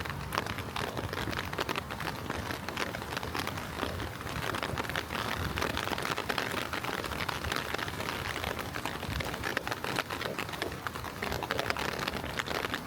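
Steady rain falling, with many small, sharp drop hits close by.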